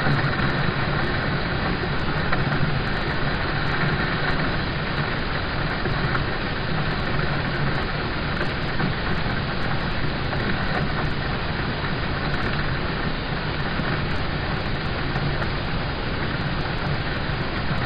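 Steady rain drumming on a car's roof and windows, heard from inside the cabin as an even hiss over a low rumble that does not change.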